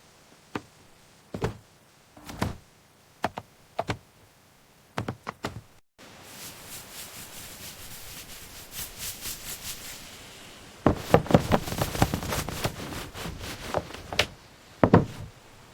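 Scattered sharp knocks and thuds, then after a sudden break a run of even taps, about three or four a second, that gives way to a dense cluster of louder knocks and a final double knock.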